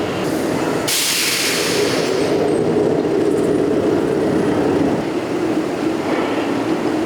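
Steady, loud running noise of hot-forging factory machinery. About a second in, a hissing burst rises over it and fades after a second or so.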